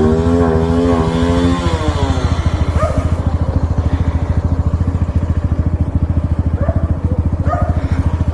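Single-cylinder four-stroke motorcycle engine revving briefly up and back down, then idling steadily with an even, rapid putter.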